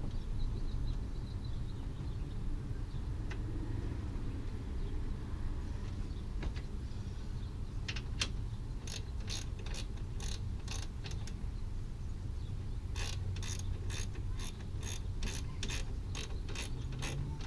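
Hand ratchet wrench clicking as bolts are run in, in two runs of evenly spaced strokes, about two or three a second, the second run longer. A steady low rumble underneath.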